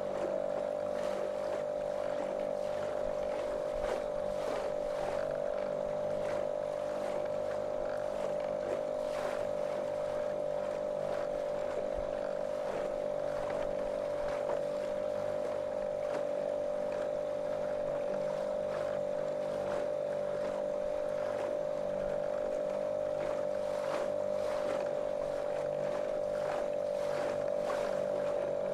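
A small motorboat's motor running at a steady cruising speed, one monotonous unchanging drone, with water splashing and rushing along the hull.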